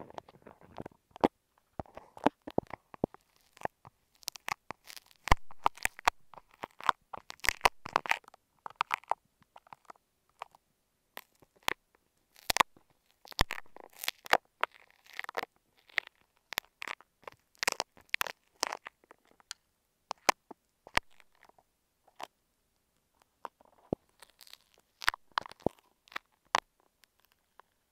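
Close-up crisp crunching and irregular sharp clicks from a clump of imitation apple snail eggs being picked out and crushed, picked up by an earphone microphone. The sound comes in flurries with short pauses between them.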